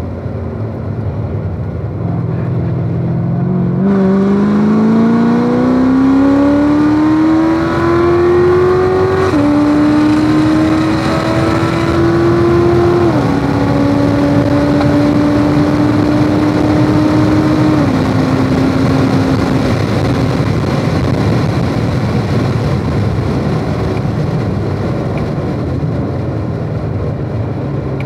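Chevrolet Corvette Z06's supercharged V8 at full throttle, heard from inside the car. From about four seconds in its pitch rises through the gears, dropping at two upshifts about nine and thirteen seconds in. It holds steady at high speed, then fades as the throttle lifts for braking a little past halfway, leaving wind and tyre noise.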